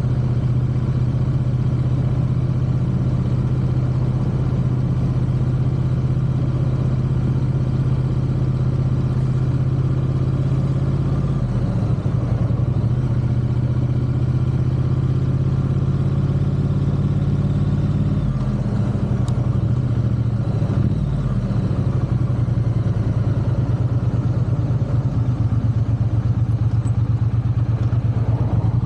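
Triumph parallel-twin motorcycle engine running on the move, a steady drone at first. About twelve seconds in the revs change, and they shift again a few times later. Near the end the engine settles into a lower, evenly pulsing beat.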